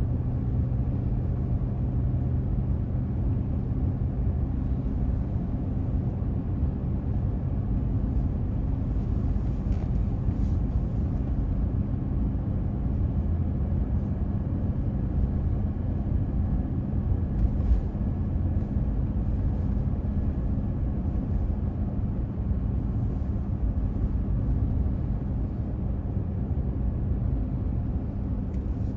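Car driving along a road: a steady low engine hum and road rumble heard from inside the cabin, with a few faint ticks.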